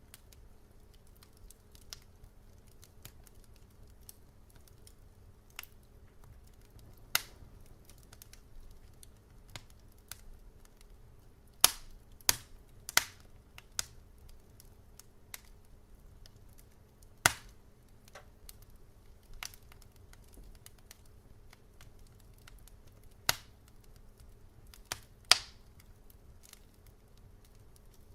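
Wood fire crackling: sharp pops and snaps at irregular intervals a few seconds apart, with a quick run of three about twelve seconds in, over a faint steady low hum.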